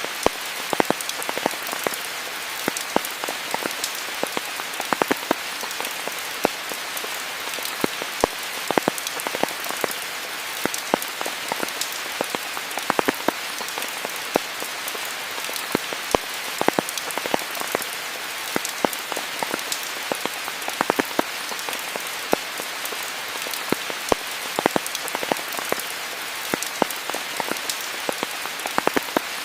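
Steady rain falling, a continuous hiss with many close, distinct drops striking surfaces.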